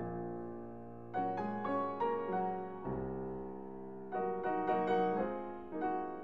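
Slow solo piano music: struck chords and notes that ring and fade, with a fresh cluster of notes every second or so.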